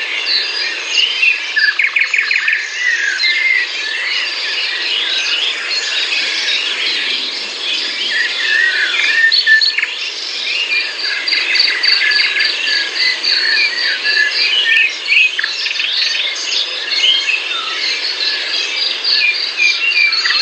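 Several songbirds singing at once, overlapping chirps and trills throughout, with one bird giving a fast run of evenly repeated notes about halfway through.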